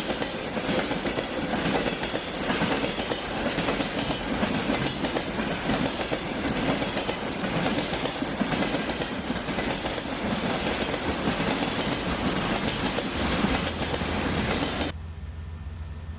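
Train running on the rails, its wheels clattering over the track with dense clicking. Near the end it cuts off suddenly to a quieter low, steady hum.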